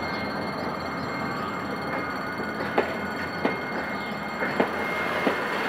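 Passenger train coaches rolling past at low speed: a steady rumble and rattle of wheels on rail. From about two and a half seconds in come several sharp knocks, typical of wheels crossing rail joints.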